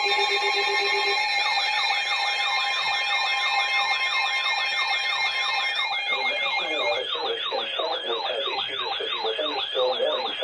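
Electronic emergency alert tones: a few steady tones at first, then a rapid rising-and-falling yelp about four times a second. A second yelping tone joins and overlaps it about six seconds in.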